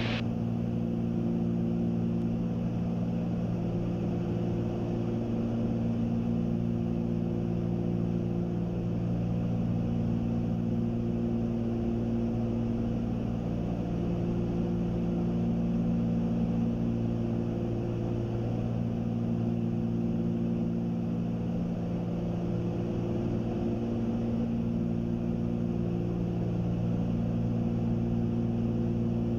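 Cessna 310Q twin-engine piston airplane in cruise: the two six-cylinder engines and their propellers make a steady low drone. Several of its tones swell and fade every few seconds.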